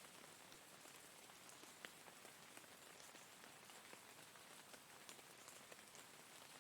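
Faint, steady rain falling, an even hiss with scattered single drops ticking close by.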